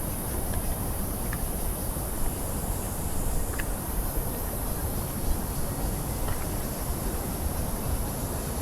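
Outdoor forest ambience: wind rumbling on the microphone under a steady high-pitched insect drone, with a few faint short chirps.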